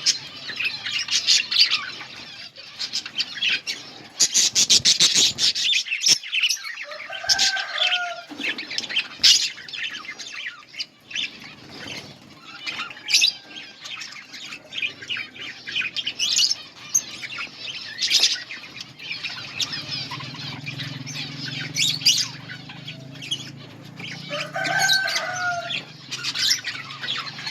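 A colony of budgerigars chirping and chattering in rapid, overlapping high calls, with wings fluttering. Twice a lower, gliding call stands out: about seven seconds in and near the end.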